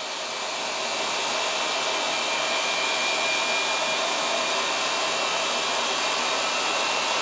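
Brushed vacuum cleaner motor running on reduced voltage from a variac, belt-driving the spinning rig: a steady whir with a thin high whine, growing slightly louder over the first couple of seconds as it spins up, then holding.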